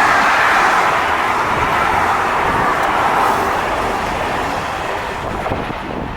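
A train passing through the station, its wheels rolling on the rails in a loud steady roar that slowly fades as it moves away.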